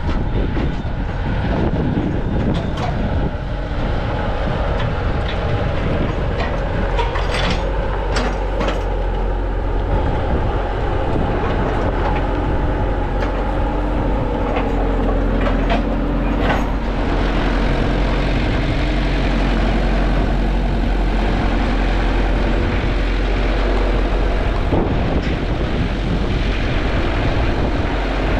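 A vehicle engine running steadily at a constant speed, with a few knocks and rattles over it, clustered about a third of the way in and again past halfway.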